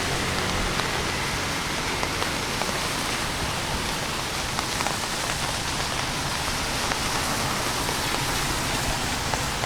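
Steady rain falling on the street, a constant hiss with many small drops ticking close by.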